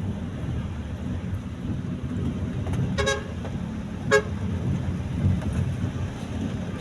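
Steady low rumble of a car moving in traffic, heard from inside the cabin, with two short car-horn toots about a second apart in the middle.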